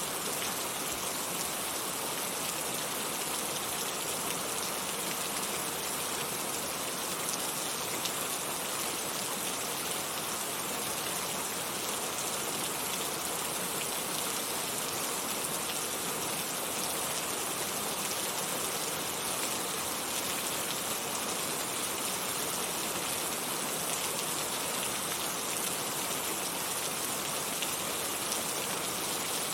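Heavy rain falling steadily, a dense even hiss of drops with fine pattering ticks and no change in strength.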